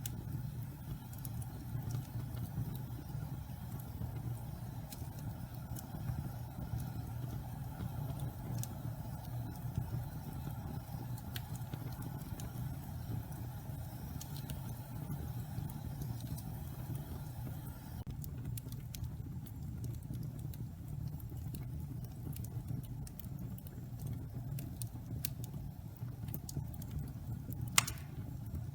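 Wood fire of pine logs, some of them damp, burning in a fireplace: a steady low rumble of flames with scattered crackles, and one sharp pop near the end.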